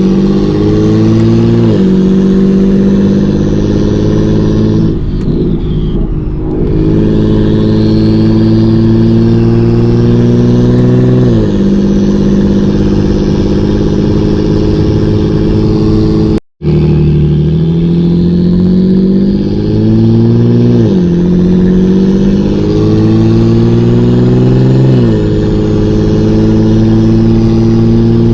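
BMW 335i's N54 inline-six with a single-turbo conversion and hood-exit downpipe, driven hard through the gears. The engine note climbs steadily under acceleration and drops sharply at each gear change, several times over. The sound cuts out for a split second about halfway through.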